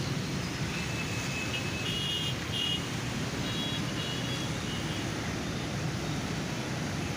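Road traffic in a jam: a steady rumble of engines and road noise, with a few short, high-pitched beeps about two and four seconds in.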